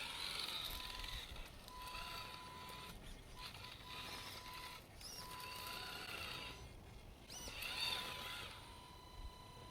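Traxxas TRX-4 RC crawler's electric motor and drivetrain whining in repeated throttle bursts, a steady tone that switches on and off with rising and falling whine above it.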